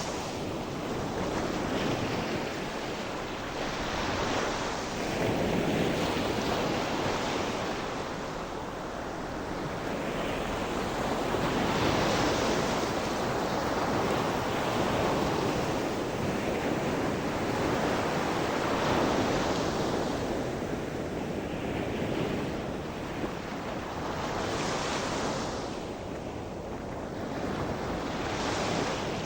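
Sea waves breaking on a shore: a continuous surf wash that swells and falls back every few seconds as each wave comes in and draws back.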